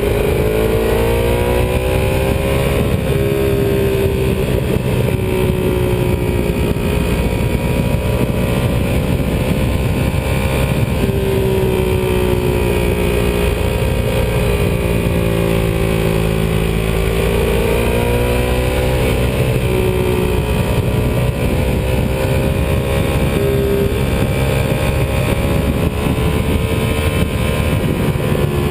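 Ducati 748R's 90-degree V-twin engine pulling under way, its pitch rising and falling with the throttle and dropping suddenly at a gear change about three seconds in, over steady wind and road rush.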